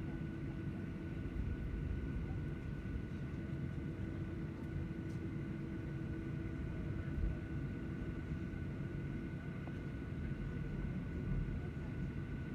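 Airliner cabin noise after landing: a steady low rumble of the engines and air system, with a constant faint hum over it.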